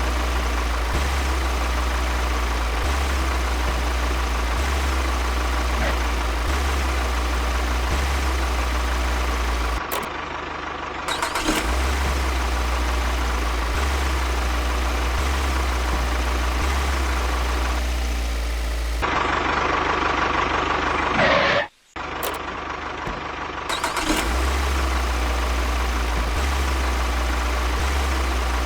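A small motor running steadily with a low hum. The sound changes abruptly about a third of the way in and again for a few seconds past two-thirds, dropping out for a moment.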